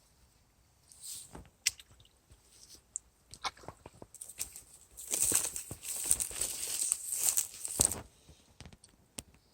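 Scattered clicks and taps, then about three seconds of rustling from about five seconds in, fading to quiet near the end.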